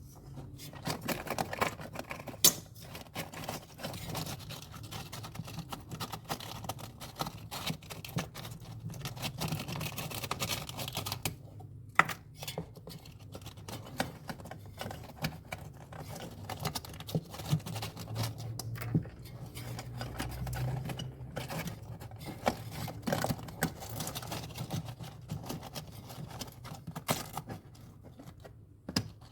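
Irregular small clicks, taps and scrapes of hands and tools working on refrigerator parts, with a couple of sharper knocks, over a steady low hum.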